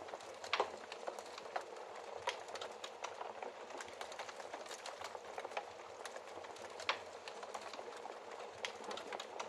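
Wood fire crackling in a fireplace: a steady soft hiss with frequent small crackles and two louder pops, about half a second in and about seven seconds in.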